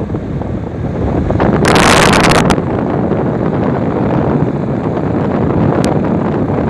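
Strong wind buffeting the microphone as a steady low rumble, with a louder, hissing gust about two seconds in.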